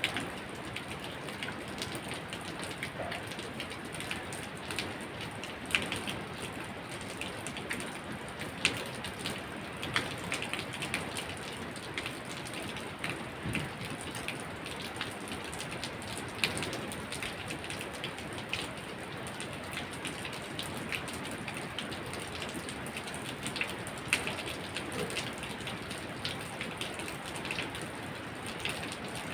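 Steady rain falling, a continuous hiss broken by scattered sharp, louder drop impacts every second or two.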